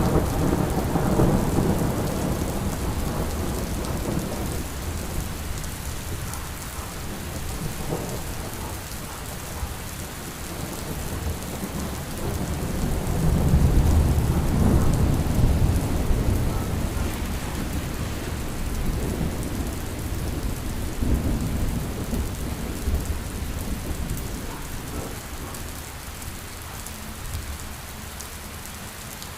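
Steady rain with low rolling thunder. The thunder rumbles at the start, swells again about halfway through, then dies away.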